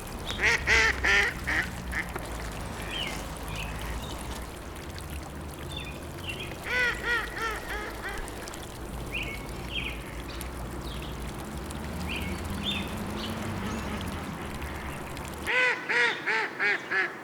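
Ducks quacking in three bursts of quick calls: one at the start, one about seven seconds in and one near the end. A steady watery hiss runs underneath, with faint chirps of small birds between the bursts.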